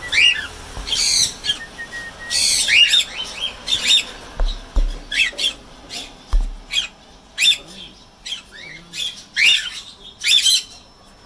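Parrots in an aviary calling: a busy run of short, high squawks and chirps, one after another, with a few low thumps around the middle.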